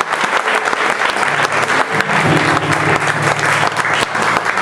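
Audience applauding steadily, a dense clapping from many hands, with a low held tone underneath through the middle.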